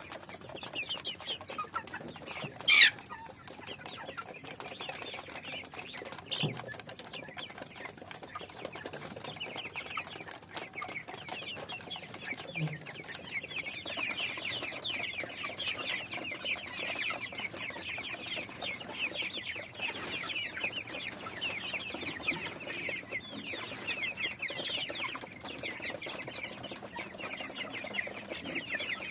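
A flock of chickens calling continuously: a dense stream of short, high, falling calls overlapping one another. A brief sharp sound a little under three seconds in is the loudest moment.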